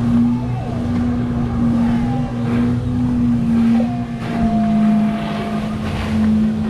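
Motorboat engine running at a steady speed, a constant hum that shifts slightly in pitch about four seconds in.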